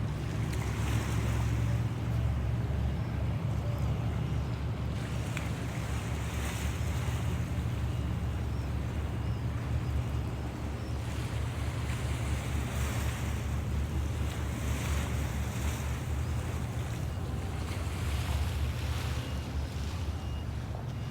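Low, steady rumble of a boat's engine, with water washing and splashing in swells every couple of seconds and wind buffeting the microphone.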